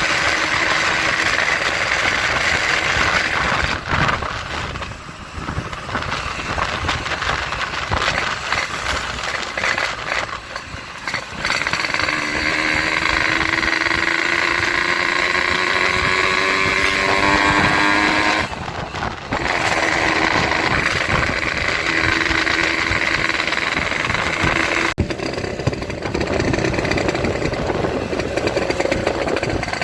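Motorcycle engine revving loudly through a gutted 'bobokan' exhaust. In the middle it climbs steadily in pitch for several seconds, then drops off suddenly, and the engine keeps running afterward.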